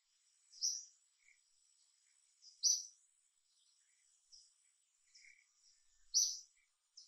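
Faint natural ambience: short, high bird chirps repeating every second or two, three of them louder than the rest, over a steady high insect whine.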